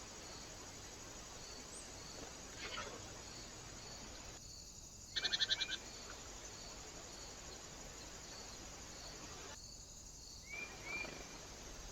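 Crickets chirping steadily at about two chirps a second. About five seconds in comes a brief, loud run of rapid clicks. The sound drops out twice for under a second.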